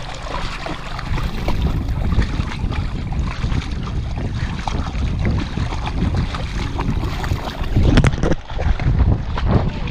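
A pit bull splashing and wading in a river, water sloshing irregularly, with wind buffeting the microphone. A louder splash comes about eight seconds in.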